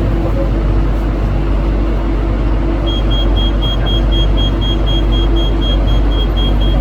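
Ivolga electric train with a steady rumble and hum; from about halfway in, a rapid high-pitched beeping joins it, about three beeps a second.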